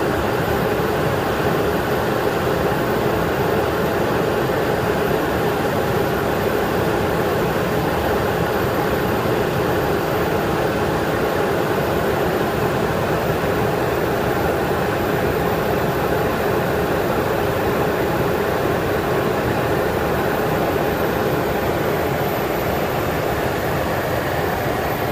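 Steady cockpit noise of a Boeing 737 on approach: rushing airflow and engine noise, even throughout with no distinct events.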